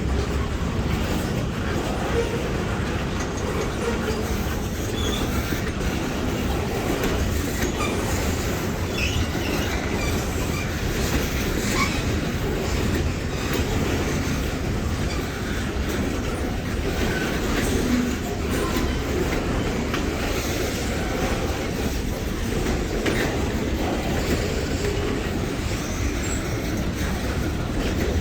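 Long freight train's cars rolling steadily past: a continuous rumble of steel wheels on rail with clacking and a few brief wheel squeals.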